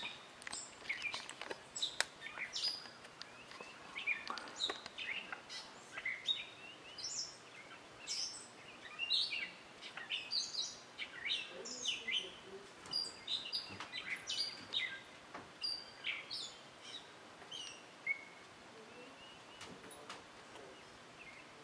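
Birds chirping: many short, high chirps and peeps, some sliding downward, coming thick and fast, then thinning out about three-quarters of the way through.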